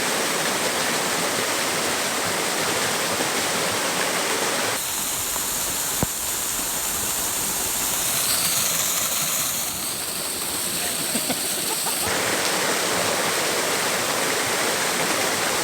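Waterfall rushing steadily into a river pool, a constant dense splashing. Its tone shifts for several seconds in the middle, lighter at the bottom and hissier at the top, then returns.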